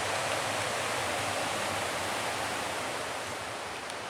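Creek running nearby: a steady rush of water that eases slightly near the end.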